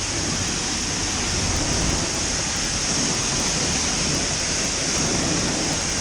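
Steady hiss of a high-pressure rinse wand at a self-serve car wash spraying water onto a pickup truck, washing off the foam soap.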